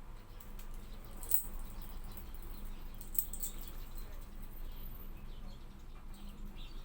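Hawfinch giving short, sharp, high-pitched ticking calls: one about a second in and a quick cluster around three seconds in, with a few fainter chirps, over a faint low hum.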